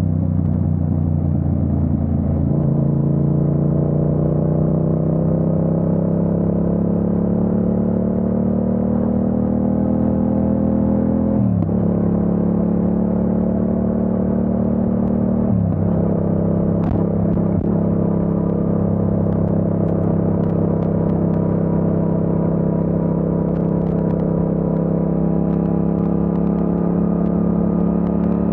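Yamaha MT-07's parallel-twin engine pulling through the gears. The pitch climbs slowly, drops sharply at an upshift about twelve seconds in, climbs again, and drops at a second upshift about four seconds later, then holds fairly steady.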